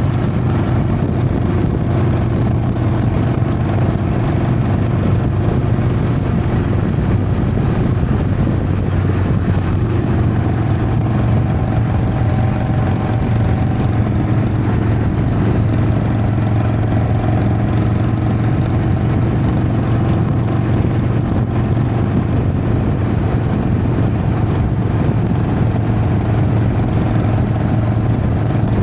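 Harley-Davidson Sportster V-twin engine running steadily under way, with the note shifting slightly about ten seconds in.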